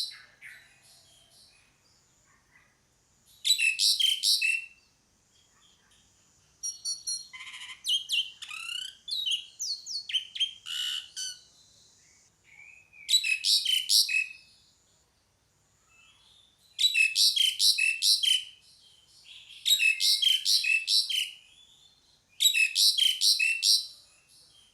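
Asian pied starling (jalak suren) calling: repeated bursts of about a second of rapid, high notes every few seconds, with a longer stretch of varied whistles and sliding notes in the middle.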